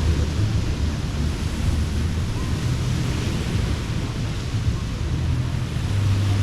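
Surf washing onto the beach, a steady rolling hiss that swells and eases, under a low rumble of wind on the microphone.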